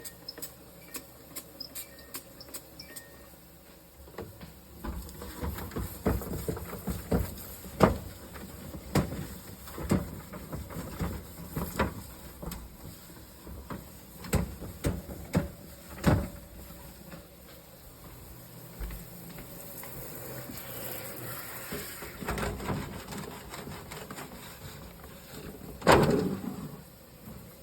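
Scattered knocks and clatter of things being handled during refrigerator cleaning, irregular and sometimes sharp, with one louder knock near the end.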